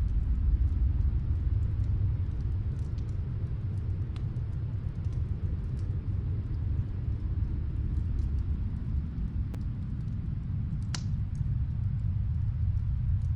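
Snowstorm wind as a steady low rumble, with faint scattered crackles from a wood fire in another room and one sharper pop about three quarters of the way through.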